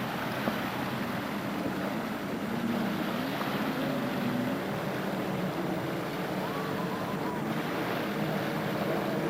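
Personal watercraft (jet ski) engine running on the water, its pitch wavering up and down, under a steady rush of water and wind.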